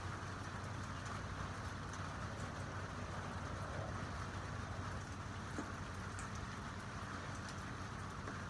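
Steady rain falling, with scattered drops ticking, over a constant low hum.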